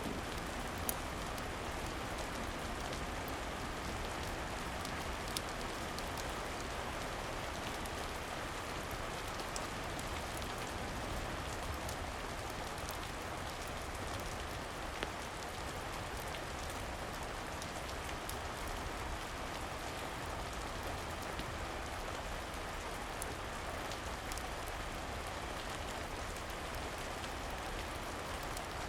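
Steady rain falling, an even hiss with a few faint, sharp clicks scattered through it.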